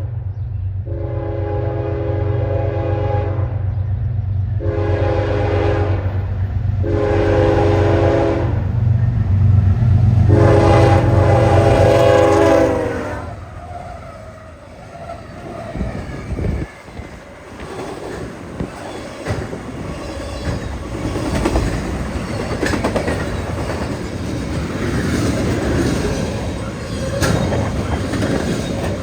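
Diesel locomotive horn sounding four blasts, the first and last longer, over the engine's low rumble. About thirteen seconds in the engine sound drops away and the train's cars roll past, wheels clacking over the rail joints.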